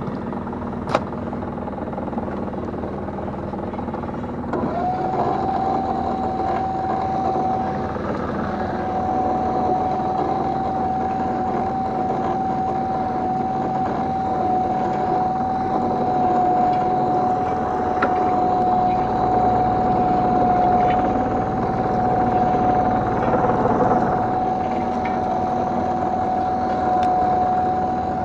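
Small fishing boat's engine running steadily while the gill net is hauled in. About four and a half seconds in, a steady whine rises briefly and then holds at one pitch.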